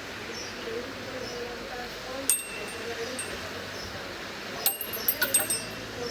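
Steady rain with small bells giving a single metallic clink about two seconds in and a quick run of clinks near the end.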